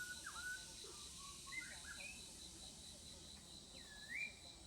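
Faint outdoor birdsong: short whistled chirps that slide down and up in pitch, the clearest a swooping call about four seconds in, over a steady, evenly pulsing high insect trill.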